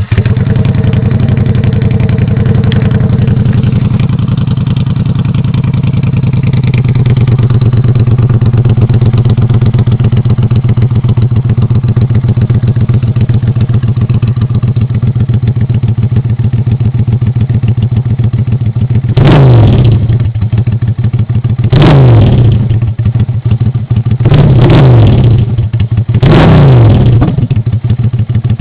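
Exhaust of an engine ('M50') idling steadily just after starting, then revved four times in quick blips in the last ten seconds.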